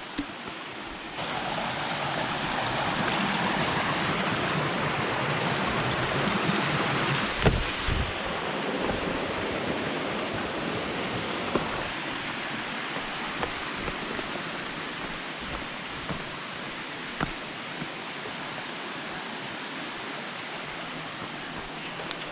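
Rushing water of a mountain creek flowing over rocks: a steady hiss that shifts in tone a few times, with a couple of brief low thumps about a third of the way through.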